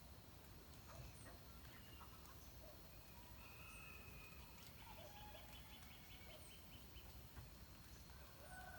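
Faint dawn birdsong: small birds chirping, one giving a rapid trill about midway, and a distant rooster starting to crow near the end, over a low steady background rumble.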